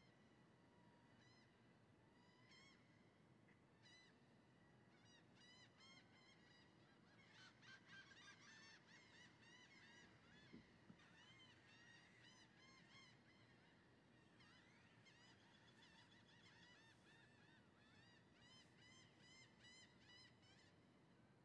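Faint birds calling: many short, high chirps repeated in quick runs, busiest about a third of the way in and again near the end.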